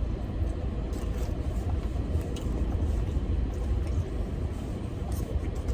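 Steady low rumble of a car heard from inside the cabin, with a few faint clicks over it.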